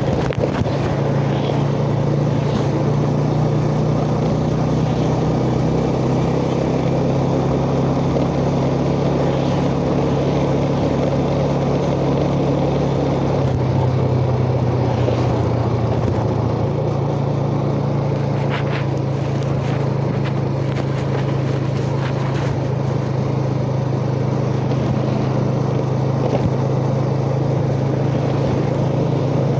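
Yamaha Jupiter Z underbone motorcycle's single-cylinder four-stroke engine running steadily under way, heard from the rider's chest. Its note drops for a few seconds about halfway through, then picks up again.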